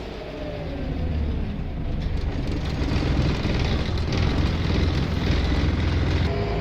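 Diesel engine of a Scania L94 single-deck bus running as the bus drives, building up over the first second, with a faint whine sliding in pitch.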